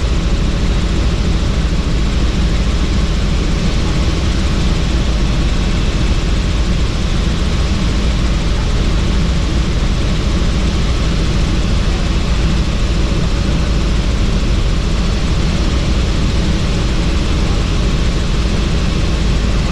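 Helicopter in flight, heard from inside the cabin with the doors off: steady rotor and engine noise mixed with rushing wind.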